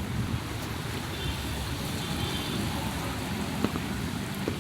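Steady street traffic noise, with a couple of small clicks near the end.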